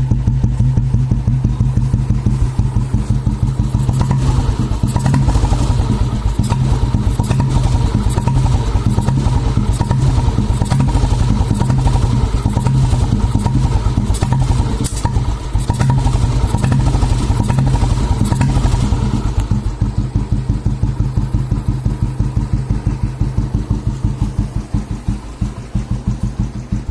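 1986 Royal Enfield Bullet's single-cylinder cast-iron engine running slow through an Indori silencer with baffles, giving a steady train of exhaust thumps. Between about 4 and 19 s it runs a little faster with more mechanical clatter on top, then settles to a slow idle with distinctly separated thumps.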